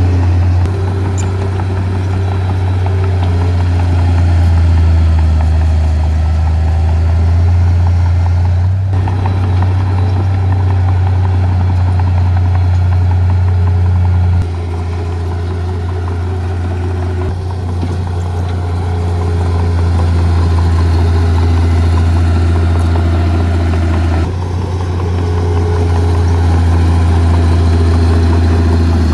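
Heavy earth-moving machine's diesel engine running steadily close by, a deep low drone with engine tones over it; the level drops and rises abruptly a couple of times.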